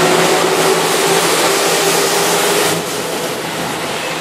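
Keihan electric train, set 2210, running past the platform: a steady rumble of motors and wheels with a faint held tone. The noise drops off about three seconds in as the last car goes by.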